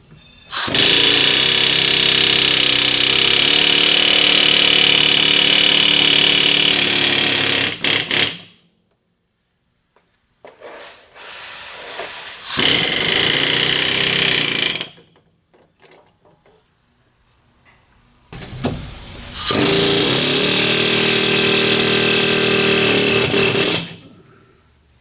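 Power tool running in three long, loud bursts, the first lasting about seven seconds, with short quieter gaps between them, used on a Chevy 10-bolt rear axle during teardown.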